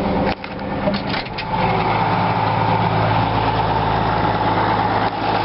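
Case 504 six-cylinder diesel in a Case 2290 tractor running steadily, still cold. There are a few clicks in the first second and a half, and about a second and a half in the engine sound becomes louder and holds steady.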